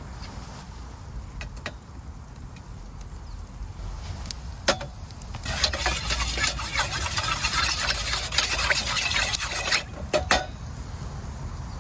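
A dense crackling hiss starts abruptly about five seconds in and runs for about four seconds, with a few sharp knocks before and after it, from cooking over a campfire.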